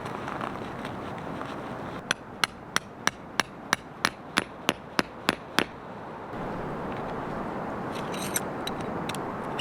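A hammer strikes a tent peg about a dozen times in a steady rhythm, roughly three strikes a second, each with a short ring. A steady hiss runs underneath.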